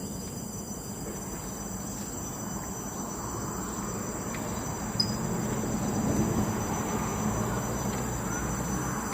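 Insects calling in steady high-pitched tones, over a low rumble that swells about six seconds in.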